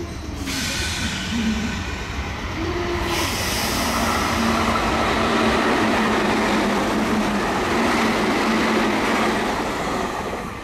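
Meitetsu electric train passing through a station at speed without stopping: a loud, steady rush of wheels on rail and running noise that builds about half a second in and fades near the end.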